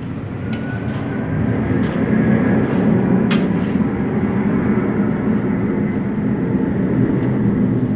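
Jet airliner engines running as the aircraft passes close by: a deep rumble that swells over the first two seconds and then holds, with a faint high whine over it.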